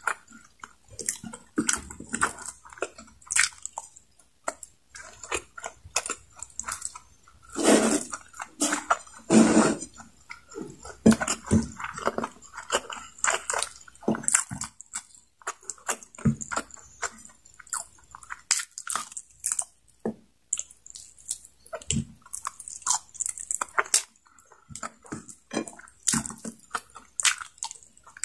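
Close-miked mouth sounds of a person biting and chewing adobo-braised chicken neck with rice: many irregular short clicks and smacks, loudest about a third of the way in.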